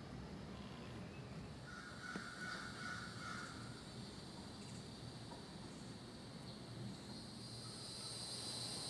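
Faint outdoor ambience. A bird calls for a second or two about two seconds in, and a steady high insect buzz rises near the end.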